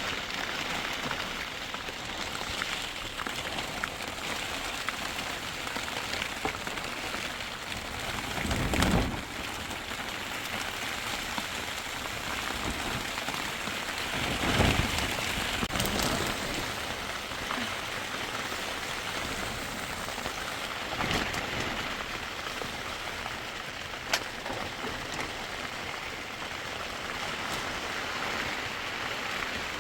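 Steady rain falling, an even hiss, with a few brief louder low swells about 9 and 15 seconds in.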